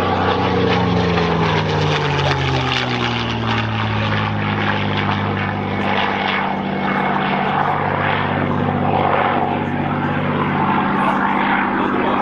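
P-51 Mustang's Packard Merlin V-12 engine and propeller running loud as the fighter passes. The pitch drops over the first few seconds, then holds steady.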